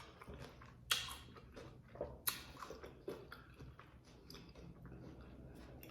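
Close-up chewing of a crunchy hard taco shell: sharp crunches about a second in, again near the middle, with smaller crackles between, dying down to quiet chewing toward the end.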